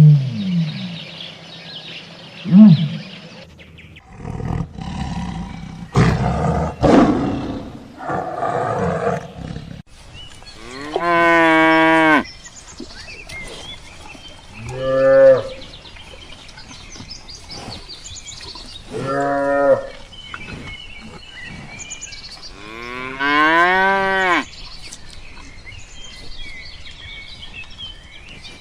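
Cattle mooing: four separate long, drawn-out moos spread through the second half. Before them come a few short calls and a rougher, noisier animal call lasting several seconds.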